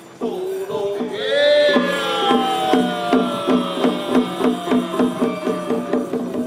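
Temple procession music: rapid, even percussion strokes about four a second, with a long pitched tone that rises about a second in and then slides slowly downward.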